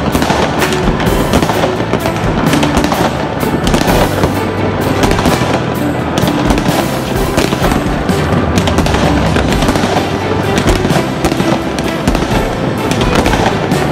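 Barrage of fireworks: rapid, overlapping bangs and crackles from many aerial shells bursting at once, with background music underneath.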